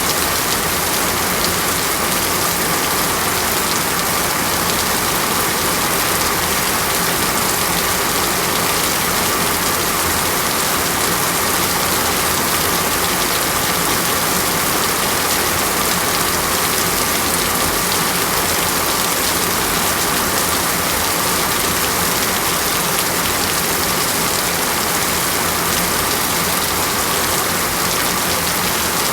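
Steady tropical rainforest rain, an even, unbroken hiss of rainfall with no thunder or other distinct sounds.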